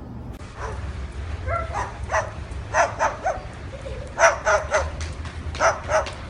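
A dog barking in a series of short barks, often in quick pairs, starting about a second in.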